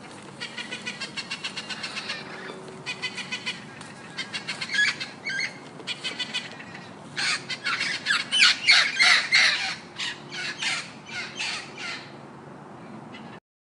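A bird calling in rapid runs of short, shrill, repeated notes. Several runs come in the first half, then a louder, longer run in the second half; the sound cuts off suddenly near the end.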